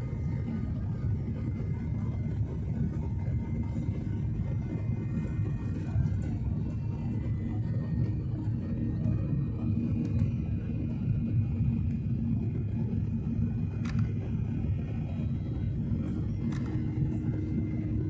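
Passenger aircraft during takeoff: a steady low rumble of engines and airframe, with faint steady whining tones above it.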